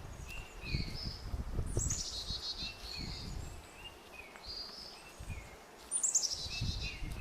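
Footsteps on a forest trail, irregular soft thuds, under songbirds singing: short whistled notes repeat throughout, and a bright, quick trilled phrase falls in pitch about two seconds in and again about six seconds in.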